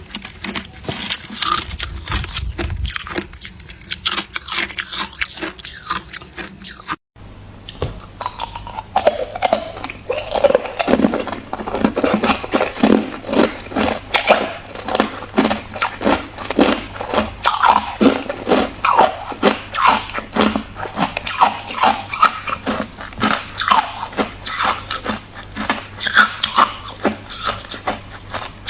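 Hard clear ice being bitten and chewed: a dense, irregular run of sharp crunches and cracks, breaking off for an instant about seven seconds in.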